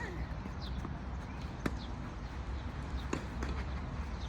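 Tennis ball being struck back and forth in a rally: sharp racket-on-ball pops, two clear ones about a second and a half apart, over a steady low court hum.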